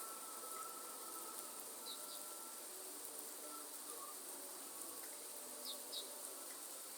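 Faint rainforest ambience: a steady insect drone with a high hiss, a thin held tone underneath, and two pairs of short high chirps, about two seconds in and near six seconds.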